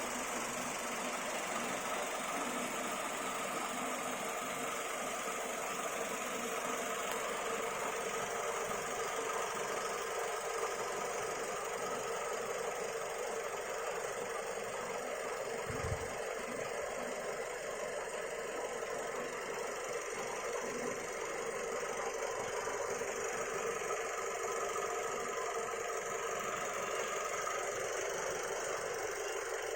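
Daihatsu Sirion car engine idling steadily, still sounding smooth after about seven years of use. A single brief low thump about halfway through.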